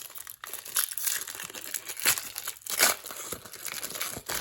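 Baseball card pack wrapper crinkling and tearing as a pack is torn open by hand, with several louder rustles.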